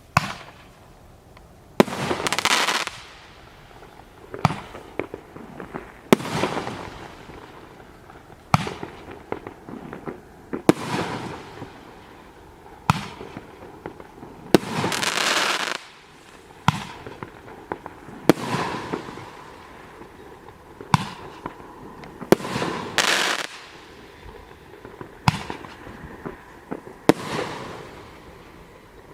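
A 38 mm (1.5-inch) Roman candle firing shot after shot, roughly every two seconds. Each shot is a sharp pop followed by a rushing hiss.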